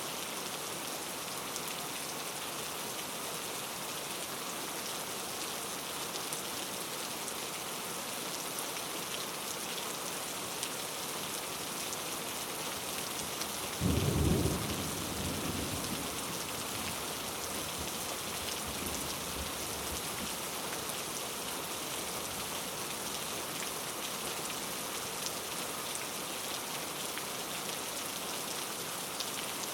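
Steady rain falling, with a single sudden clap of thunder about halfway through that rumbles low and dies away over a couple of seconds.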